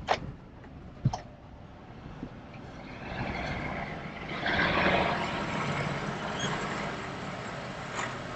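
A heavy truck running with a steady low rumble, with two sharp clicks near the start and a louder rush of noise about four to five seconds in.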